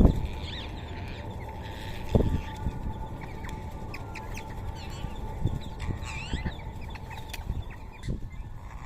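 Rose-ringed parakeets calling, with many short chirps and shrill glides, over a few low thumps.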